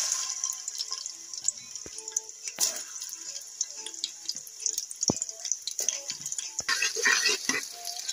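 Sliced onions sizzling and crackling in hot oil after being dropped into a metal pot. Near the end, a spatula stirs them, scraping against the pot with repeated strokes.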